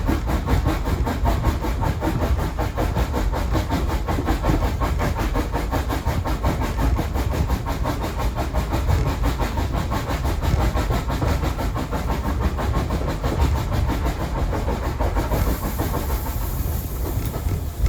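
Heritage steam-hauled train running along the track: a steady low rumble with rail clatter. A high hiss joins about three seconds before the end.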